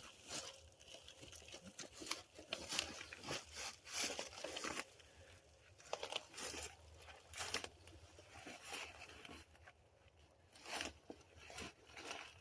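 Irregular crunching and rustling in dry leaves and brush as logs are handled and carried by hand, with scattered short knocks and cracks.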